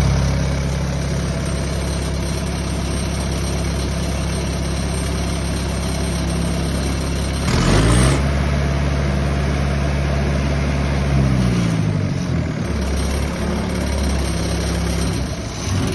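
Kubota V3600T four-cylinder turbodiesel running steadily on a wood chipper. Its speed shifts briefly about eight seconds in, and again around eleven to twelve seconds.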